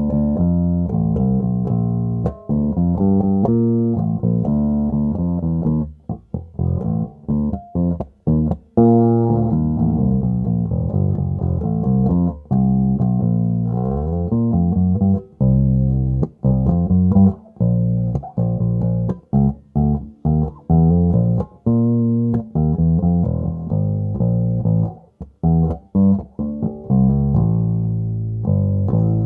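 Rebel Relic 1962 J-Series Jazz-style electric bass played solo: a line of plucked notes broken by short muted stops, with a slide in pitch about halfway through. The tone is full in the lows and low mids.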